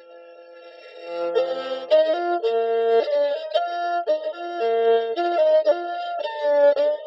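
Background music: a melody of held, stepped notes on a Hmong raj (bamboo flute), soft at first and fuller from about a second in.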